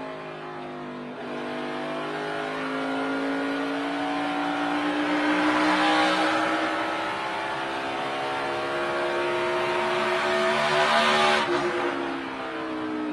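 NASCAR Cup stock car's V8 heard from inside the car, its pitch climbing steadily along a straight for about eleven seconds, then dropping abruptly near the end as the driver lifts for a turn.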